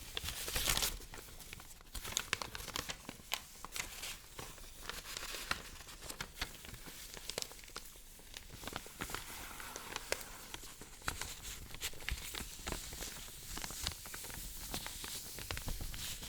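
Paper being handled close to the microphone: an irregular crinkling and rustling with sharp little crackles, louder in the first second or so.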